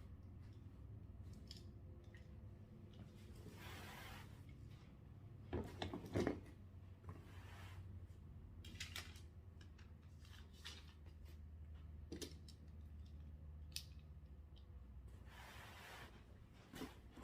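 Faint, scattered rustling and clicking of things being handled, loudest a little under halfway through, over a low steady hum.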